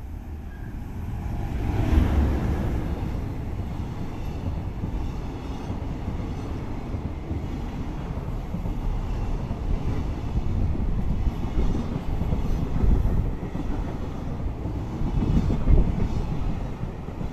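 Freight train passing close by: the locomotive goes by about two seconds in, followed by a long run of wagons rumbling past with repeated thumps from the wheels.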